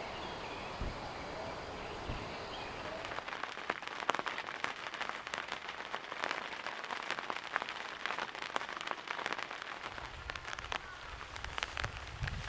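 Rain falling, with dense close drops striking a surface from about three seconds in, over a steady hiss.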